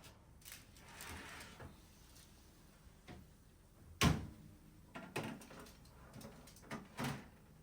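A series of light household knocks and clatters, like a door or drawer being handled, with the loudest knock about four seconds in and a few more near the end.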